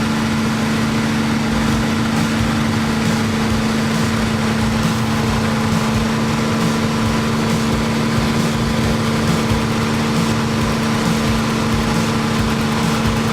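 Piston aircraft engine running steadily at a constant idle, its pitch unchanging.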